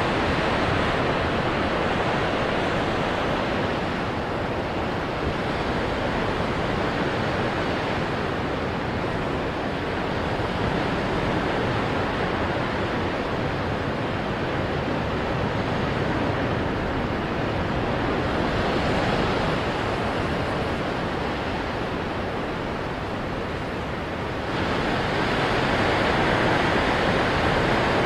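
Ocean waves breaking on rocks, a continuous rushing surf that swells and eases in slow surges, with a fresh surge coming in sharply near the end.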